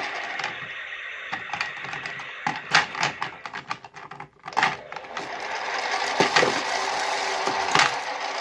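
Toy washing machine's small electric motor whirring, dying away about a second in. Several sharp plastic clicks and knocks follow, and the whirring starts again near six seconds.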